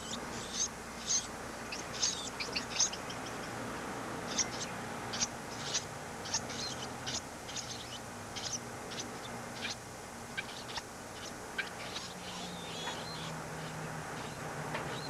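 Baby birds chirping: many short, high chirps at irregular intervals throughout, over a steady low hum and hiss.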